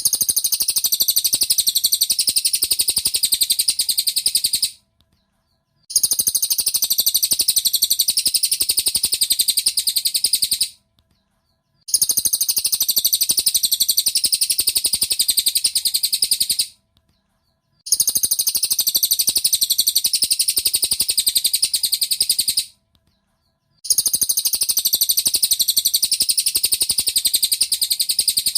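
Cililin bird song from a looped masteran recording: a very fast, high-pitched rattling trill in bouts of about five seconds, each followed by a second or so of silence, repeated five times.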